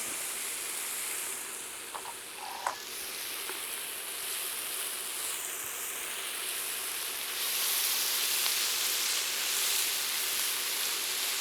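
Thick-cut bacon sizzling in a hot frying pan: a steady hiss that grows louder about two thirds of the way through, with a couple of light clicks about two seconds in.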